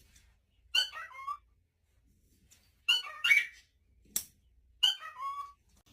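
Pet parrot giving short whistled calls in three separate bursts, each with quick pitch glides; a sharp click comes just before the last burst.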